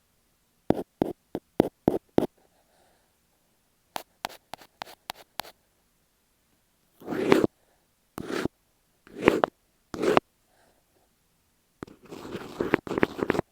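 Close-miked tapping and scratching on masking tape stuck over an earphone microphone. First two runs of sharp taps, the second quicker and lighter. Then several short swelling rubs and, near the end, a dense crackly scratching.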